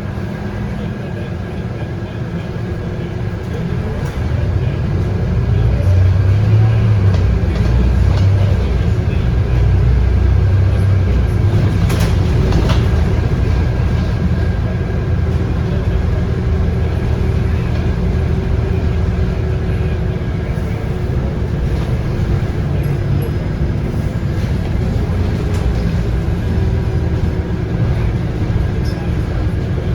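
Scania K230UB bus under way, heard from inside: its 8.9-litre five-cylinder Scania DC9 diesel and ZF Ecomat automatic gearbox running with a steady deep rumble that grows louder about five seconds in. A sharp click sounds about twelve seconds in.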